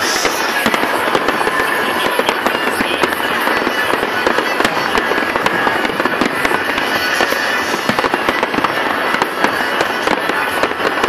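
Fireworks display going off: a dense, unbroken crackle of many overlapping bangs and pops.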